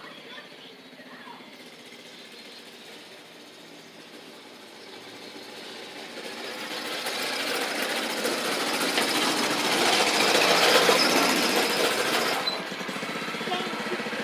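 Mini bike's small engine running with a fast rattle, growing louder from about five seconds in to a peak around eleven seconds, then dropping off suddenly and carrying on more quietly.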